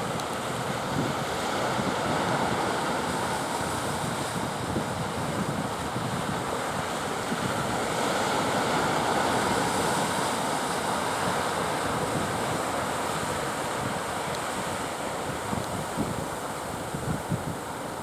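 Sea surf washing and breaking, with wind buffeting the microphone; the noise swells twice and eases.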